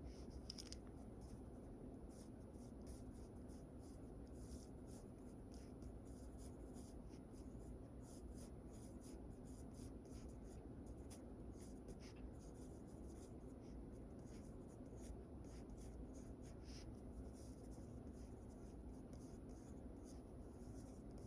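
Sketching strokes scratching on paper, faint, in many short, irregular strokes over a steady low background hum.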